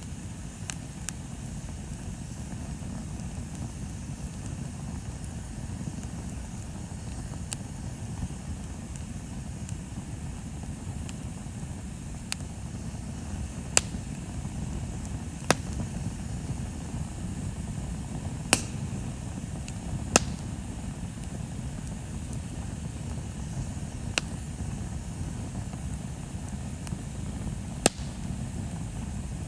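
Wood bonfire burning: sharp pops and crackles every few seconds over a steady low rushing noise.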